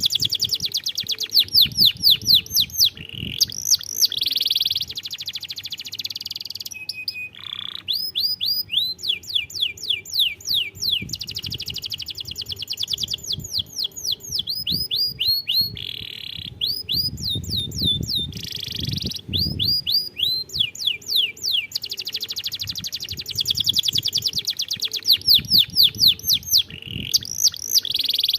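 Domestic canary singing a long song made of fast trills: rapidly repeated down-sweeping notes, many per second, changing from one phrase to the next with short breaks between phrases.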